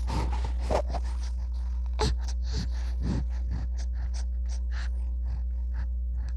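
Newborn baby breathing in short quick gasps and snuffles, with a couple of louder gasps in the first seconds and softer, more spaced breaths later, over a steady low hum.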